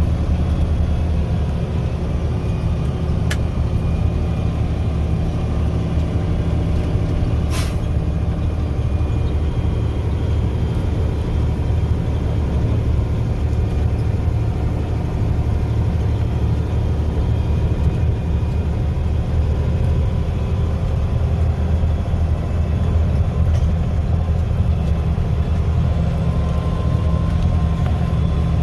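Mack snowplow truck's engine running steadily, heard from inside the cab, with a faint click about three seconds in and a sharper short click about eight seconds in.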